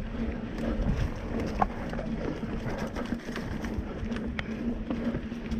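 Mountain bike rolling over a dirt trail: steady tyre rumble mixed with wind noise on the camera microphone, and many short clicks and rattles from the bike as it goes over bumps.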